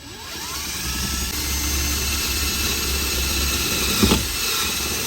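Power drill running under load as it drives a screw into the framing: the motor spins up with a rising whine at the start and then runs steadily. There is one sharp knock about four seconds in.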